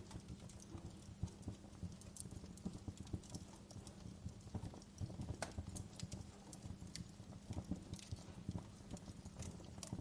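Wood fire crackling in a fireplace: irregular pops and snaps over a steady low hiss of burning, with a sharper snap about five and a half seconds in.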